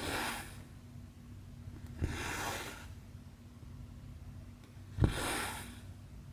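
Cross-stitch needle pushed through 11-count stamped cross-stitch fabric with a sharp pop, then the thread drawn through with a short rasp. This happens three times, about every two and a half seconds, over a faint steady hum.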